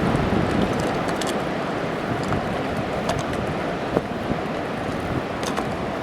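Steady rushing noise of wind on the microphone over ocean surf, with a few faint crackles.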